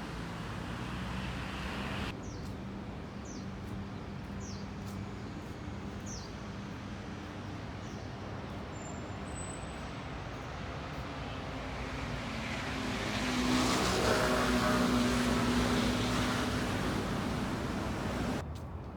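Steady city road traffic noise, with a heavier vehicle passing that swells louder for a few seconds past the middle and then fades. A few faint high chirps sit over the traffic near the start.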